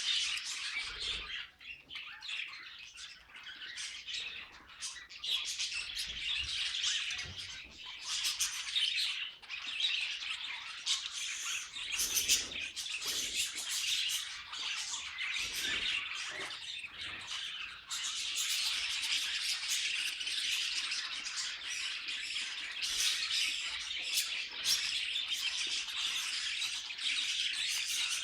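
Budgerigars chattering and warbling together: a dense stream of fast chirps, trills and squawks that grows more continuous about two-thirds of the way through.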